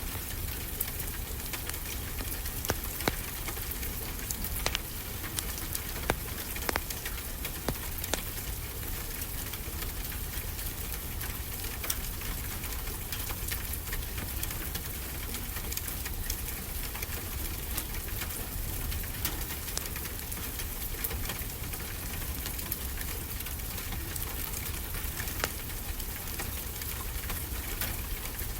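Wood fire crackling, with sharp pops scattered throughout and most frequent in the first third, over a steady low wash of ocean surf.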